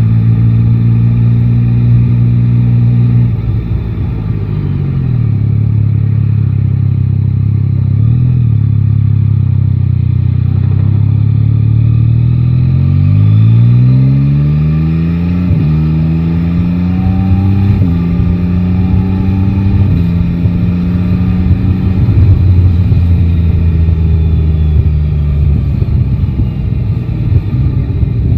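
Yamaha Tracer 9 GT's three-cylinder engine slowing to low revs, then accelerating hard, its pitch rising, with three upshifts about halfway through before settling into a steady cruise.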